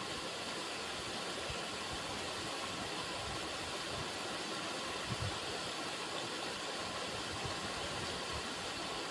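River water running in a steady rush, with a brief low thump about five seconds in.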